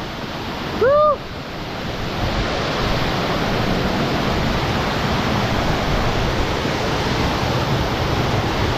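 Waterfall rushing steadily close by, a dense hiss of falling water that swells slightly after the first couple of seconds. A short vocal exclamation cuts through about a second in.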